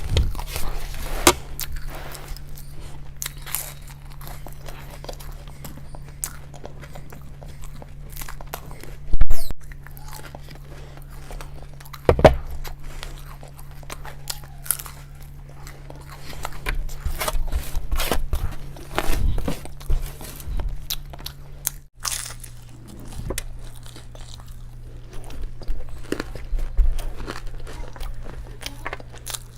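Close-up eating sounds: crunching bites and chewing of crunchy food, with a sharp, very loud crunch about nine seconds in. A steady low hum runs underneath.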